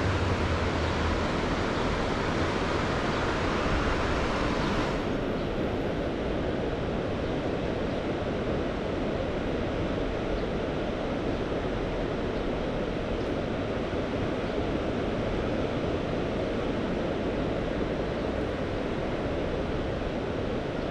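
Sea waves washing steadily, with wind buffeting the microphone. A brighter, louder hiss stops abruptly about five seconds in.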